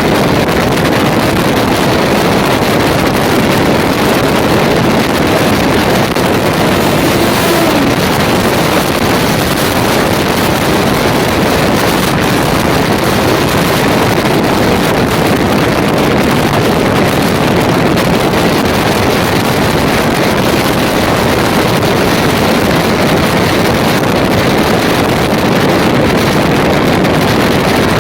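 Kolkata suburban EMU local train running, giving a steady, loud noise of wheels on rail, with wind on the microphone.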